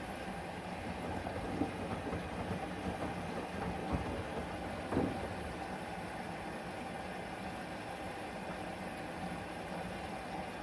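Washing machine running with a steady hum, with a few short knocks in the first half.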